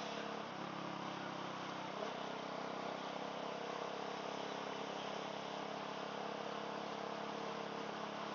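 Motorcycle fitted with an aftermarket sport exhaust, running steadily under way, heard muffled through a microphone inside the rider's helmet over a rush of wind. The engine note shifts slightly about half a second in and again around two seconds in.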